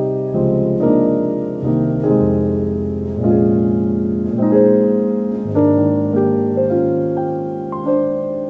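Soft, slow piano music, with new notes or chords struck about once a second and left to ring.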